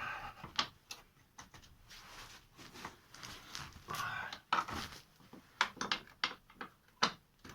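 Hand wrench undoing the 13 mm nuts on the steering rack's mounting studs: irregular metallic clicks and brief scrapes.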